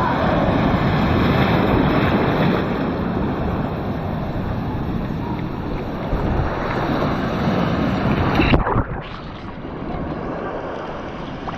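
Ocean surf washing onto the beach, with wind buffeting the microphone. A little over two-thirds of the way through, the sound cuts abruptly to a quieter, softer wash of surf.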